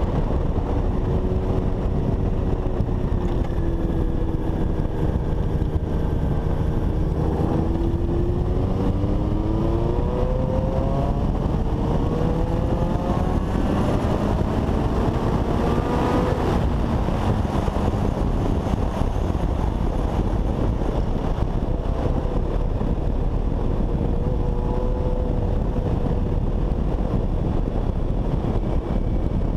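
Honda CBX 750 inline-four motorcycle ridden at speed, with heavy wind rush over the engine. The engine note climbs steadily for several seconds under acceleration, then drops away suddenly about halfway through, and settles to a steadier cruise.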